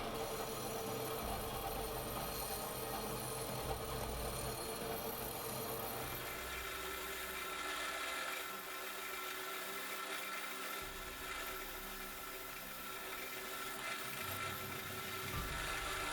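A small electric power tool running steadily, its sound changing about six seconds in.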